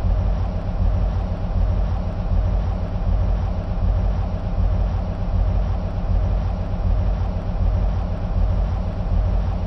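EMD SW1500 locomotives' 12-cylinder two-stroke diesel engines idling steadily, a deep even rumble.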